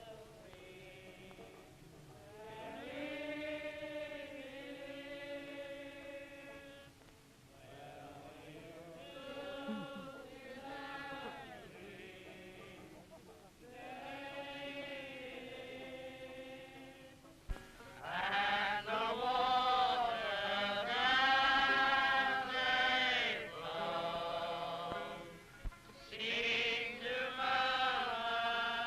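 Group of British soldiers singing together in slow sung phrases, on an early sound-film recording with a dull, thin top end. The singing gets much louder about two-thirds of the way through, just after a click.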